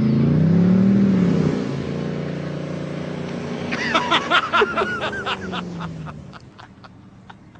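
Car engine running hard, its pitch dipping and rising again as it revs, with a burst of short high-pitched sounds about four seconds in, then fading away near the end.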